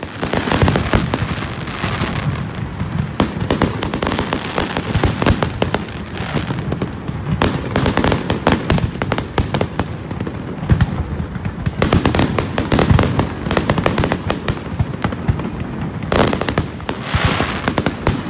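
Fireworks barrage: a dense, continuous run of bursting shells and crackling, with many sharp bangs overlapping.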